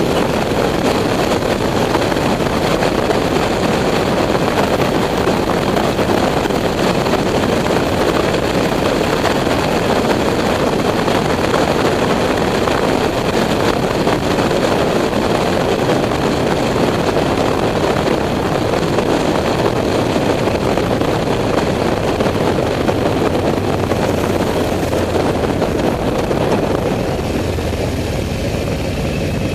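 Motorcycle on the move: a steady, loud rush of wind and engine noise. Near the end the rush eases and a low, steady engine hum comes forward.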